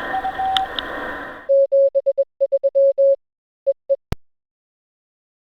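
Morse code sent as a single clean keyed tone, two long and three short, then three short and two long, spelling '73', the ham sign-off for best regards, followed by two quick dits. A single sharp click ends it.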